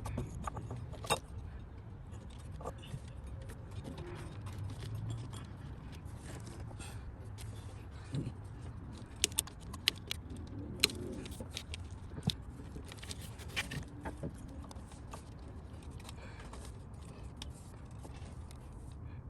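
Irregular light metallic clicks and clinks from hands-on repair work on the engine, loudest in a cluster about nine to eleven seconds in, over a steady low rumble.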